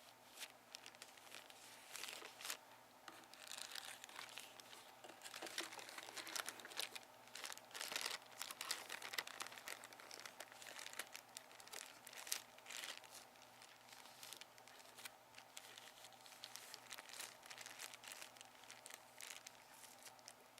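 Crinkling and crumpling of a bag or wrapper being handled: a dense, irregular run of crackles, with a few louder ones along the way.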